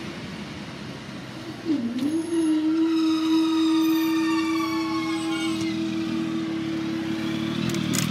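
Class 156 diesel multiple unit at the level crossing, a set of whining tones from the train sliding slowly down in pitch. Over it a single steady warning tone starts about two seconds in and holds for about six seconds before cutting off.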